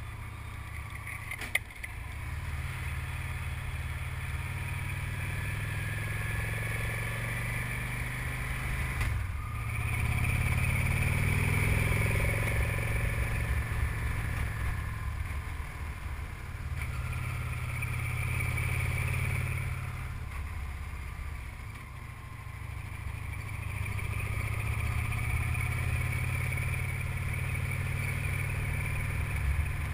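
Victory Cross Country touring motorcycle's large V-twin engine running under load on a steep climb. The engine note dips and picks up again several times, and there is a sharp click about a second and a half in.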